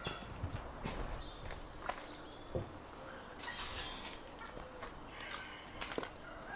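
Steady high-pitched insect chirring starts about a second in, with a few light knocks scattered through it.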